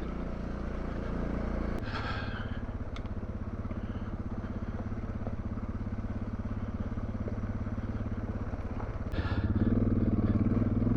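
Adventure motorcycle engine running at low trail speed on a rough off-road track. Its note drops about two seconds in, then grows louder near the end as the rider gets back on the throttle.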